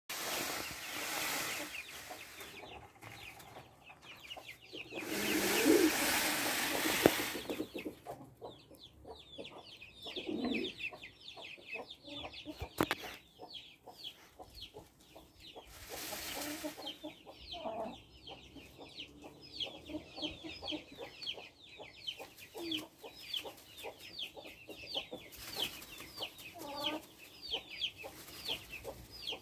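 Birds in a coop peeping in short, high, falling chirps, about three a second, over most of the stretch. There are loud bursts of rustling in the first few seconds and again about halfway through.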